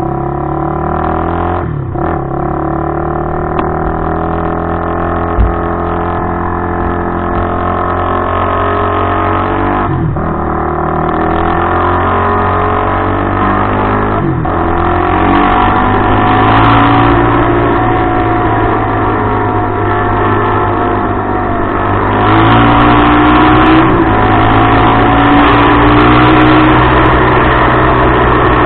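Suzuki LTR450 quad's single-cylinder four-stroke engine running through a DMC aftermarket exhaust, its pitch shifting up and down with brief dips about two, ten and fourteen seconds in. It gets louder about twenty-two seconds in.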